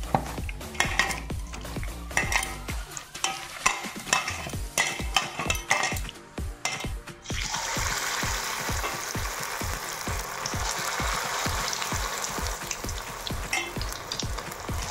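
Hand squelching and stirring chicken pakoda batter in a steel bowl, with bangles clicking against each other and the bowl. About seven seconds in, this gives way to a steady sizzle of battered chicken pakodas deep-frying in hot oil in a metal kadai.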